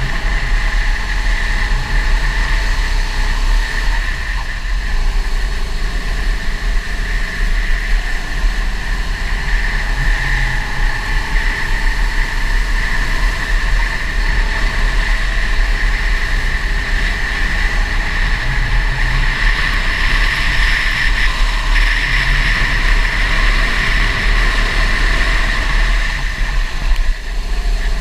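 Go-kart engine running continuously, its pitch rising and falling with the throttle, over a steady low rumble.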